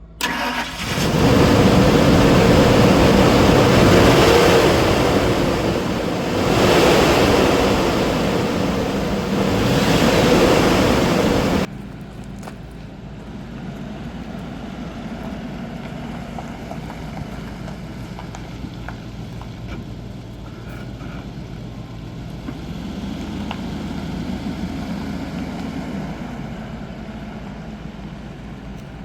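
2002 Ford F-150 engine running, loud and close for about the first twelve seconds, its level swelling and falling several times. It then cuts off suddenly to a quieter, steady engine hum.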